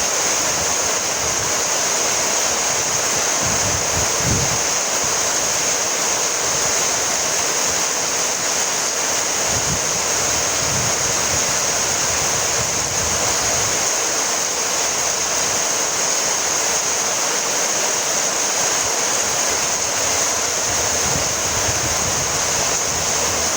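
Steady rainfall: an even, unbroken hiss that neither builds nor fades.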